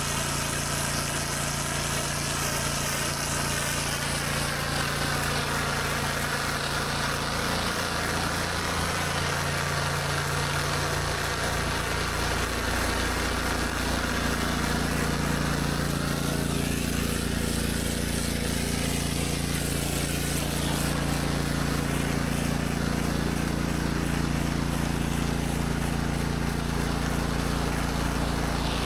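Engine-driven 8 gpm pressure washer running steadily at constant throttle while high-pressure water sprays onto concrete, a continuous engine hum under a broad hiss.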